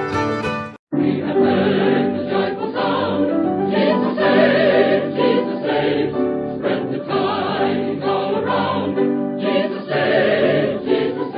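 Choir singing a gospel hymn with accompaniment, sounding thin like an old broadcast recording. Just before a second in, a brief fiddle tune breaks off into a moment of silence before the choir comes in.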